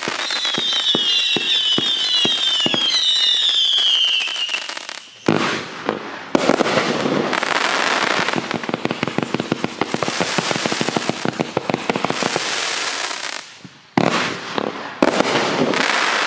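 A 100-shot barrage finale cake firing. For the first four seconds or so, several whistles slide down in pitch together. Then comes a dense run of rapid shots and crackling, broken by abrupt cuts about five and fourteen seconds in.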